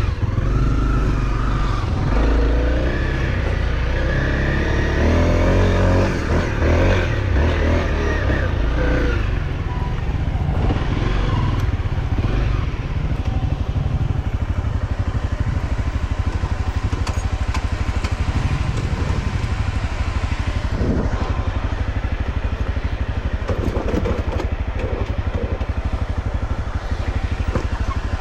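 Off-road motorcycle engine running, revving up and down over the first several seconds, then running more evenly.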